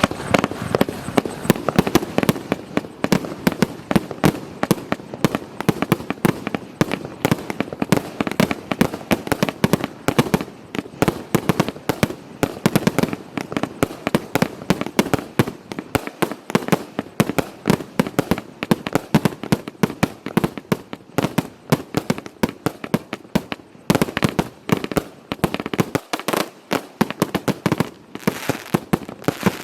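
120-shot compound firework cake firing a rapid, continuous barrage of shots: a steady stream of sharp bangs, several a second, with crackle in between.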